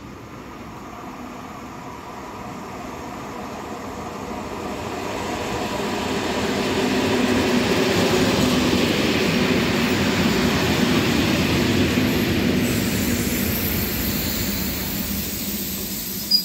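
Polregio EN57 electric multiple unit approaching and running past close by: the rumble and hum of its wheels and motors grows steadily louder over about seven seconds, then stays loud as the carriages go by. A single sharp knock sounds just before the end.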